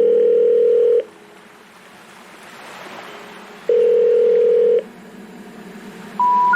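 Telephone call-progress tones: a steady ringing tone about a second long sounds twice, about 3.7 seconds apart, with a faint hiss between. Near the end come the first two notes of a rising three-note signal like the one that comes before a 'number not in service' recorded message.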